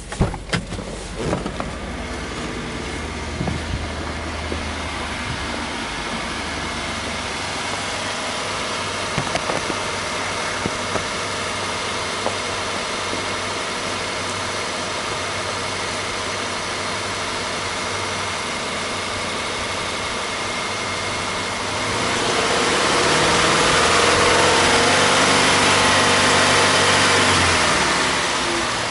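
Subaru Legacy B4 2.0GT DIT's turbocharged flat-four (boxer) engine idling steadily, heard from beside the open engine bay. A few sharp knocks come in the first couple of seconds, and about two-thirds of the way through the sound swells louder and holds for about six seconds before falling back.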